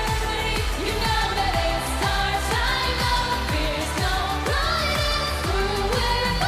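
Pop song with singing: wordless, held vocal notes that slide between pitches over a backing track with a steady kick-drum beat.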